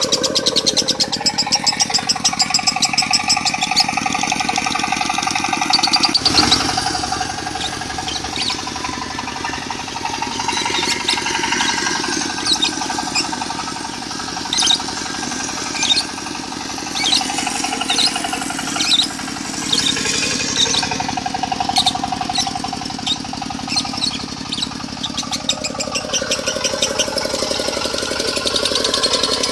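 A lovebird's long, unbroken chattering song of the 'konslet' type, mixed with a diesel engine running steadily underneath.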